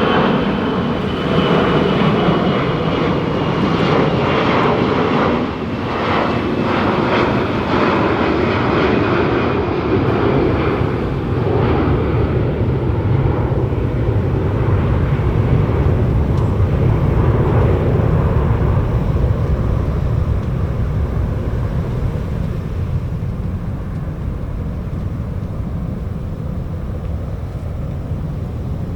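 Four-engine Airbus A340 jet airliner at takeoff power, a steady dense engine noise. A thin high whine falls slowly in pitch over the first ten seconds or so. After that a deep low rumble takes over, easing off a little toward the end.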